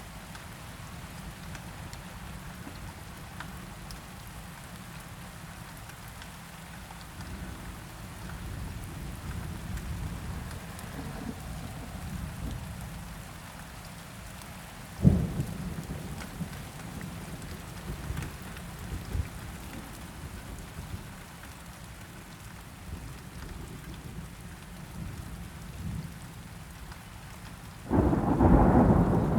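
Steady rain falling through a thunderstorm, with low thunder rumbling underneath. A sharp thunderclap comes about halfway, and a louder rolling peal of thunder breaks near the end.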